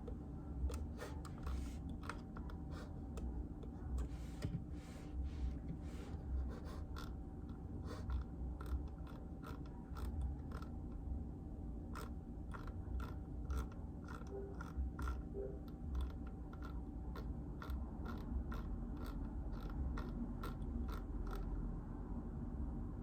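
Typing on a JJK84 mechanical keyboard with Outemu Silent Peach silent linear switches: a fast, irregular run of keystroke clicks, over a steady low hum.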